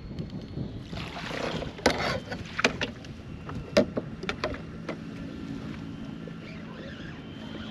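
Several sharp knocks and clatters of gear against a kayak over water and wind noise. About five seconds in, a steady low motor hum sets in.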